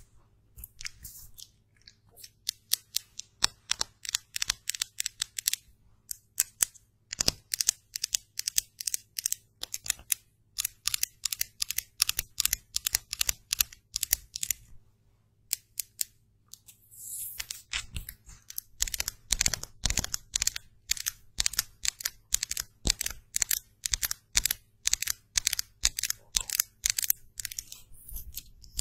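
Close-miked makeup handling and application: quick, crisp scratchy strokes and clicks, several a second, in runs broken by short pauses, with a longer hiss about seventeen seconds in.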